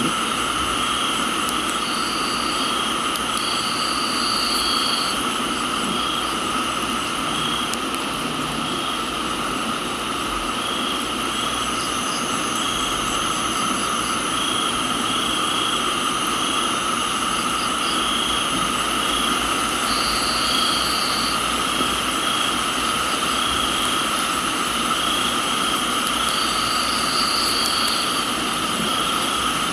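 Steady rain hiss under crickets and other insects chirping in layers: a regular pulsing chirp, steady higher-pitched trilling, and a higher trill that starts and stops a few times.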